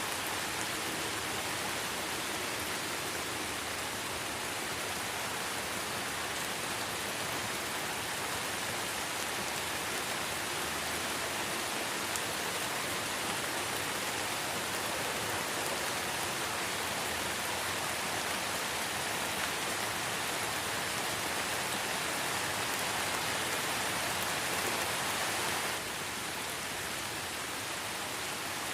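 Light rain falling in a forest: a steady, even hiss of many drops with no single drop standing out. The level steps down slightly and suddenly near the end.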